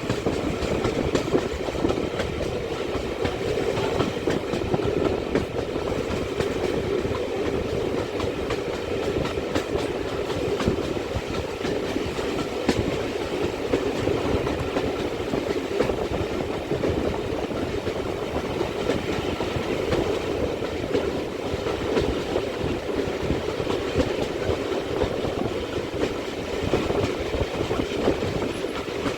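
Steam-hauled heritage train running steadily, its wheels clattering over the rail joints.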